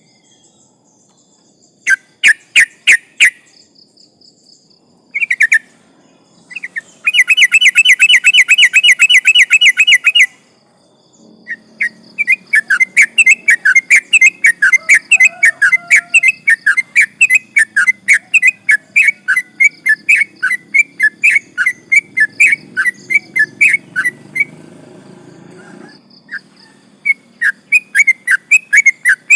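Yellow-vented bulbul (trucukan) singing in rapid runs of clear whistled chirps: a short phrase, then a fast even trill of about three seconds, then a long unbroken stream of quick chirps of about fourteen seconds. This is the long repeated song that bird keepers call ropel.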